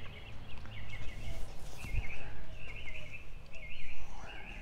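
Birds chirping in a steady run of short, repeated chirp clusters, over a low steady hum, with one brief low thump about two seconds in.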